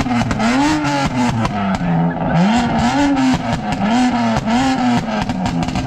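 Modified car engine revved hard in quick repeated blips, about eight in a row, its pitch leaping up and falling back each time, with sharp cracks and pops from the exhaust.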